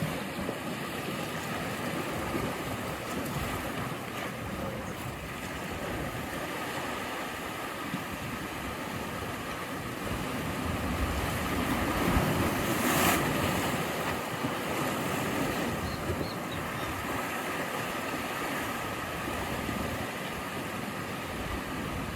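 Sea waves washing onto the shore in a steady wash of surf, swelling to a louder breaking wave about halfway through.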